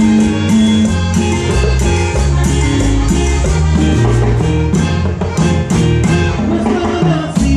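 Latin tropical dance band playing an instrumental passage: a walking bass line under steady percussion and bright melodic instruments.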